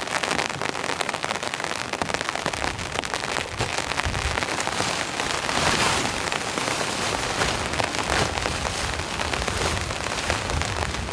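Heavy rain pouring down, a dense steady hiss of many drops pattering on surfaces. A low rumble joins about four seconds in.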